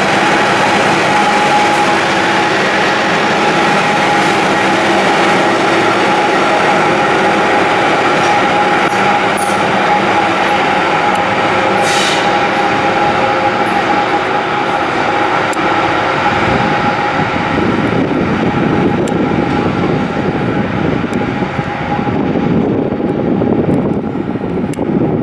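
Train running close by at the station: steady whine of its equipment over rolling wheel noise, with a few sharp clicks, and the rumble grows heavier in the last third.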